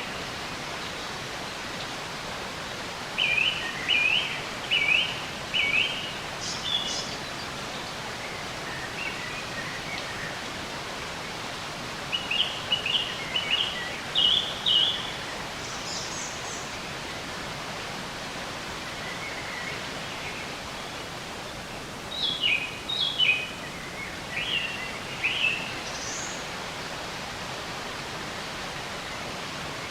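Songbirds singing in short phrases of quick repeated chirps, in three spells several seconds apart, over a steady even hiss.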